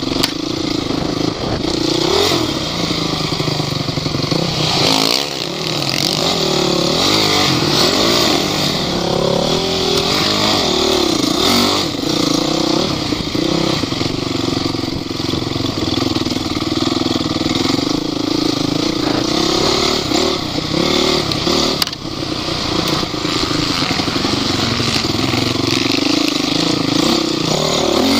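Off-road vehicle engine running under load over rough ground, its pitch repeatedly rising and falling as the throttle is worked, with occasional knocks from the vehicle.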